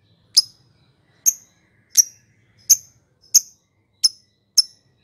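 Lovebird giving a series of short, sharp, high-pitched chirps, seven in all, about one every two-thirds of a second, coming slightly faster near the end.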